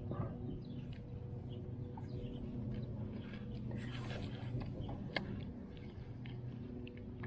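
A small fishing boat's motor running with a steady low hum, while birds chirp now and then in the background.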